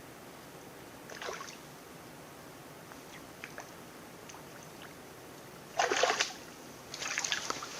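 Small forest stream flowing in the background, broken by a few short noisy bursts of splashing or handling noise; the loudest comes just before six seconds in, and more follow near the end.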